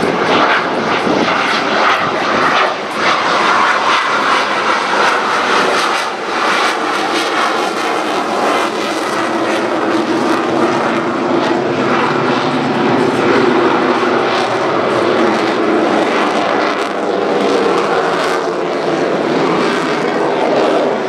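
Jet noise from a Dassault Rafale C's two Snecma M88 turbofans during a flying display: a loud, continuous roar whose pitch shifts lower about halfway through.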